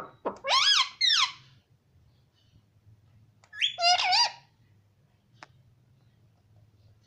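Pet parrot calling: two short squawks with a bending, rising-and-falling pitch about half a second in, then another quick pair of calls a little past the middle, with a few sharp clicks near the start.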